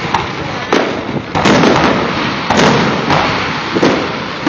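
Aerial fireworks shells bursting: a string of booms, about one every half second to a second, each trailing off in a rumbling echo.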